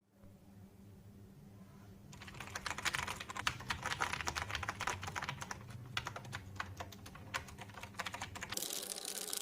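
TVS Gold mechanical keyboard with clicky Cherry MX Blue switches being typed on rapidly, starting about two seconds in, with a low hum beneath.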